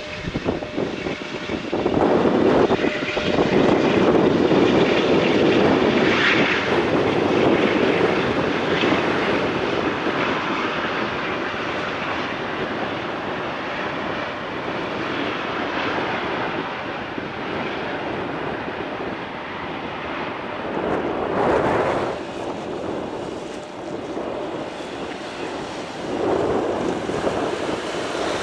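Boeing 777-200ER twinjet's engines rushing as the airliner lands, swelling about two seconds in, loudest for several seconds, then slowly fading.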